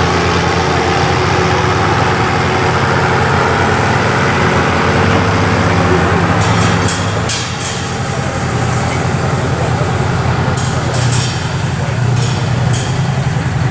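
A heavy engine idling steadily, with several short hisses in the second half.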